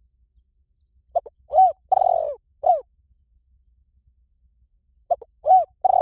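Spotted dove cooing: one phrase of four low, arched coos a little after a second in, with the next phrase starting near the end.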